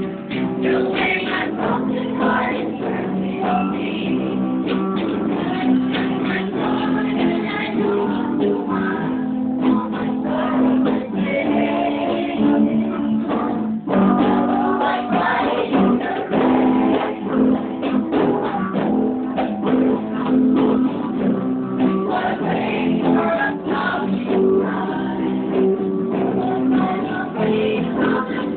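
Unplugged band music: strummed guitars playing a song's chords.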